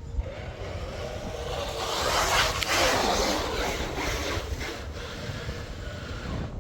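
Radio-controlled boat running across the water, its sound swelling to a peak about two and a half seconds in and then fading, over a steady wind rumble on the microphone.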